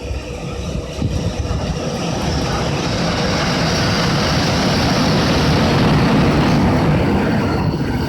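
Freight train hauled by a JR Freight EH500 'Kintaro' electric locomotive approaching and passing, its rumble of wheels on rails growing louder and peaking about six seconds in.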